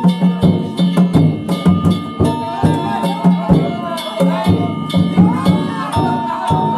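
Danjiri festival music: a drum and clanging hand gongs struck in a fast, steady rhythm of about three strokes a second, the gongs' ringing carrying over it.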